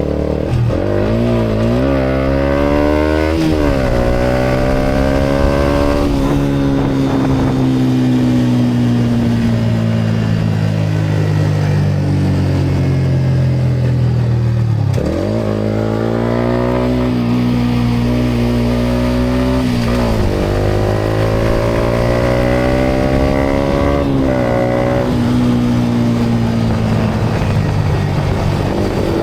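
Yamaha MT-125's single-cylinder four-stroke engine through a GPR aftermarket exhaust, under way: it pulls up through the gears with quick upshifts in the first few seconds, then holds a steady note. About halfway through the revs drop right off and it accelerates again through several more upshifts.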